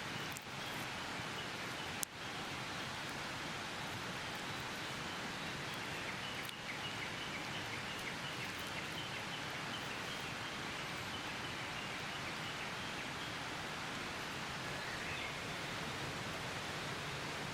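Steady hiss of water outdoors, rain or a stream, with a single sharp click about two seconds in and a faint high chirping in the background.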